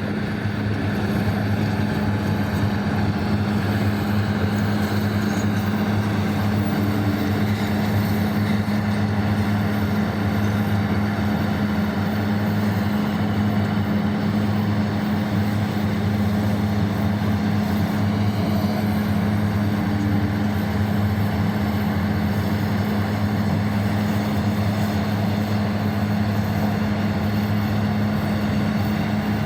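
Heavy mining machinery's large diesel engines running with a steady, deep drone that holds evenly throughout.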